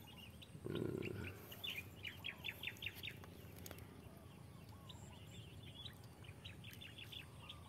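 Birds chirping: rapid runs of short, high chirps, faint, in two main bouts. A brief, louder, low muffled sound comes about a second in.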